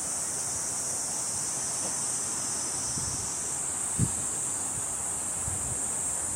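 Steady chorus of summer cicadas: a continuous high-pitched buzz that shifts slightly in pitch about halfway through. A single low thump comes about four seconds in.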